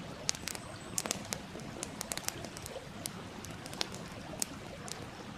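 Wood campfire crackling, with sharp irregular pops a few times a second over the steady murmur of a stream.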